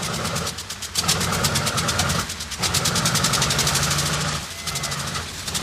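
B-29 Superfortress Wright R-3350 radial engine running with a rapid, even firing pulse, dipping briefly twice. It is running on the ground after its carburetor was adjusted, following failed starts.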